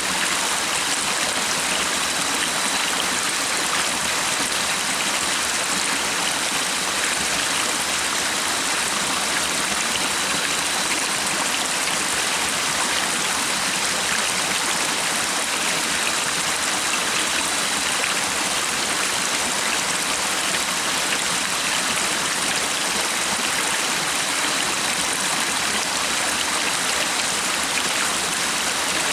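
Stream running steadily: an even, unbroken rush of flowing water.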